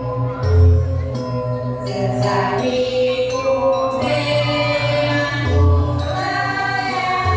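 Balinese janger song: a group of voices singing together in wavering unison, over gamelan accompaniment with recurring low booming beats.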